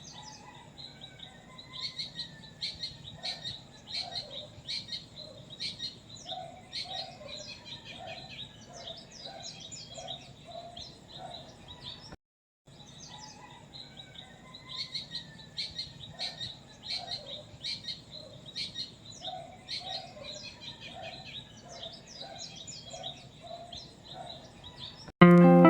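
Many small birds chirping and calling, with a run of lower, evenly spaced calls among them. The sound drops out briefly about halfway, and loud guitar music starts right at the end.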